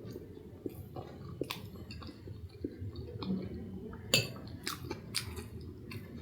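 Close-miked chewing of food, with scattered wet mouth clicks and smacks and a louder click about four seconds in.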